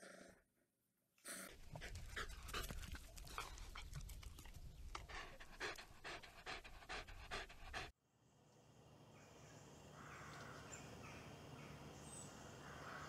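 A dog panting quickly and rhythmically with its tongue out, two or three breaths a second. It cuts off abruptly about eight seconds in, leaving faint steady background noise with a few soft calls.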